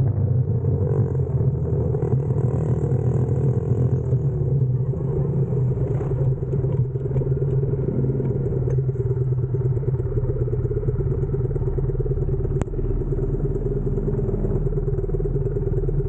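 X-Pro Storm 125cc pitbike's single-cylinder four-stroke engine idling steadily, with a single sharp click late on.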